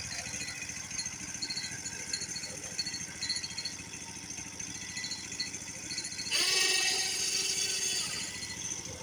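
Engine-driven machinery running steadily, with a louder, harsher stretch starting about six seconds in and easing off near the end.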